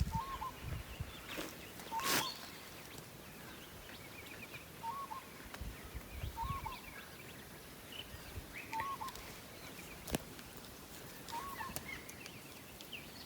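A bird calling, a short rising-and-falling note repeated about every two seconds, with fainter higher chirps between. A couple of sharp clicks or knocks stand out briefly, one about two seconds in and one near ten seconds.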